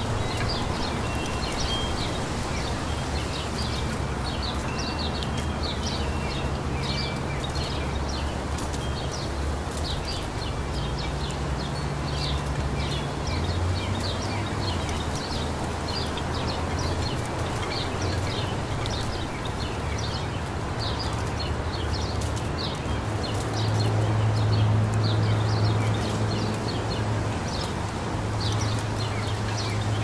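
Small songbirds chirping, many short calls scattered throughout, over a steady low hum that swells for a couple of seconds about three-quarters of the way through.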